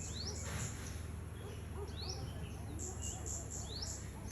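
Birds calling: a short rising whistled call repeated about every two seconds, with quick high chirps in between, over a steady low hum.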